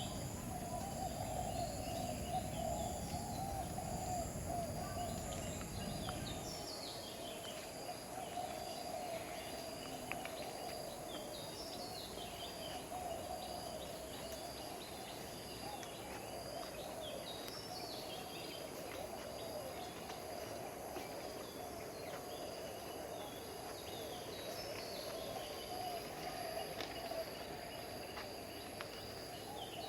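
Aviary ambience: several birds chirping and calling in short falling notes, over a steady insect-like drone. A low rumble stops about six seconds in.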